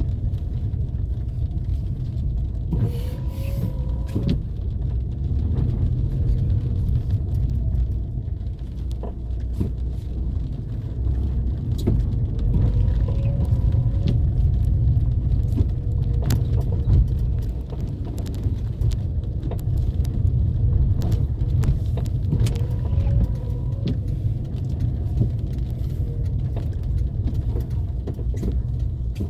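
A car driving along a street: a steady low rumble of engine and tyres, with scattered small knocks from the road. A short wavering tone comes back three times, about every ten seconds.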